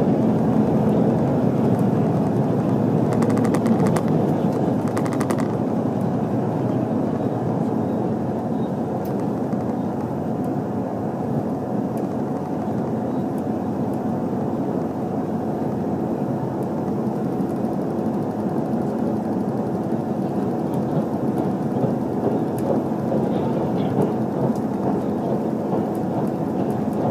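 Running noise of an HC85-series hybrid limited-express train at speed, heard from inside the car: a steady dense rumble and rattle of wheels on the track. A brief patch of sharp rapid ticks comes about three to five seconds in.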